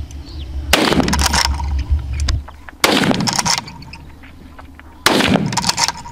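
Three gunshots from a boar hunt, about two seconds apart, each with a short echoing tail.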